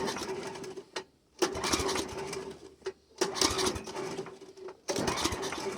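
Snowblower engine being pulled over again and again on its recoil starter in the cold, cranking for about a second and a half each time without catching, about four pulls in a row. The owner takes it for the engine not getting any gas.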